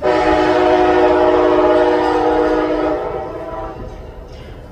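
Amtrak locomotive air horn sounding one long chord blast as the train departs, held about three seconds and then fading away.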